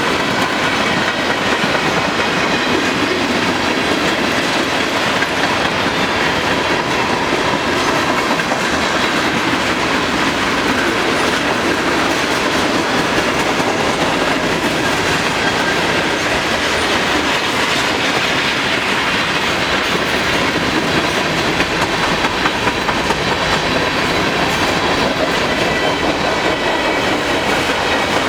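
Freight train cars rolling past steadily: the wheels click over the rail joints, over a constant rumble, with faint thin high ringing tones from the wheels on the rail.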